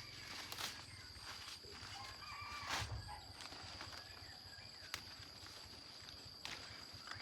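A few sharp knocks, a burst of short chirping animal calls, and a steady high thin whine.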